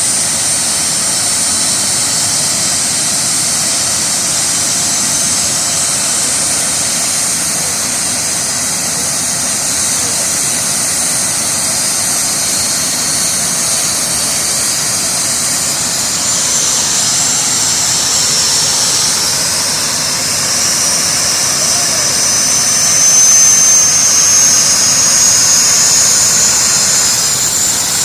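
Triple-turbine jet truck's jet engines running with a steady high-pitched whine. About two-thirds of the way through, one whine climbs gradually in pitch and the sound grows a little louder as the engines spool up.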